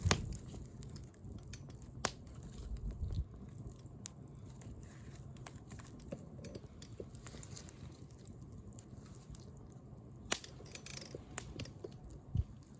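Wood fire crackling, with sharp pops from the burning wood scattered irregularly through, a loud one right at the start and another about ten seconds in, over a low rumble.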